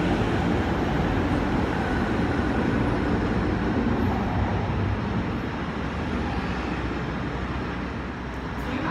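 Hong Kong MTR Ma On Shan Line C-Train running: steady rumble and rail noise, easing a little in loudness over the last few seconds.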